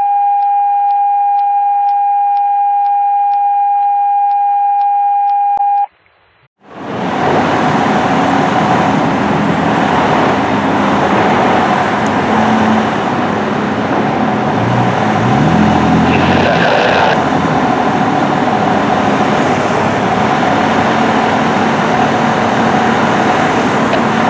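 A steady electronic alert tone, like a radio dispatch tone, with faint regular ticks, cuts off about six seconds in. After a moment's quiet, a fire truck responding fills the rest with a loud, steady, noisy rush of vehicle sound.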